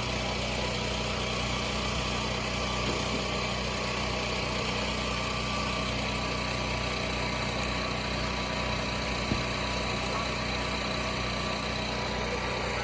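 Portable generator engines running steadily at a constant speed, a continuous hum. A single short click about nine seconds in.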